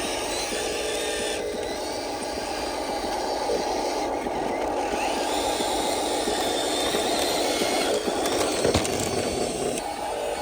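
Radio-controlled model truck driving, its small electric motor and gearbox whining steadily over a rough scraping of the wheels on the ground, with a few sharp clicks about eight to nine seconds in.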